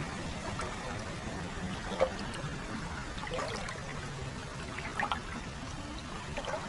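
Hot spring water flowing and trickling into a foot bath, a steady pouring with a few louder splashes and drips, the sharpest about two seconds in.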